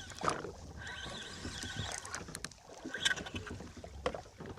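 Ambient sound on a small fishing boat at sea: a steady wash of wind and water with scattered light clicks and knocks from fishing gear. Faint thin steady tones come in briefly twice.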